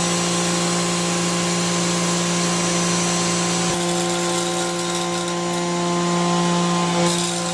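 CNC milling machine cutting metal: a steady whine from the spindle and cutter, with several constant tones over a high hiss.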